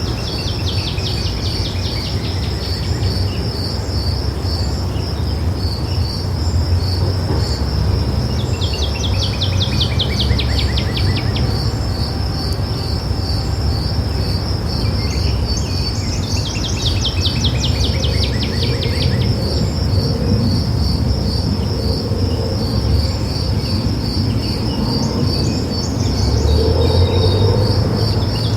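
An insect chirps in a steady, even, high-pitched pulse, about three pulses a second, throughout. Over it a songbird sings a falling trilled phrase again and again, roughly every eight seconds. A low, steady rumble runs underneath.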